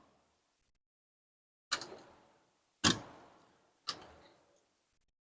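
Hammer tapping wood wall framing: three sharp knocks about a second apart, the middle one loudest.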